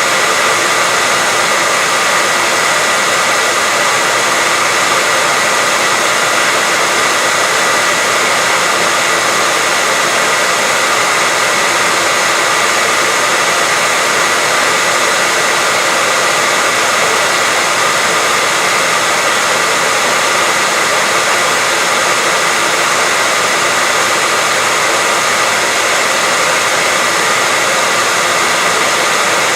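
Steady, unchanging white noise: an even rushing hiss with a faint high whine held through it.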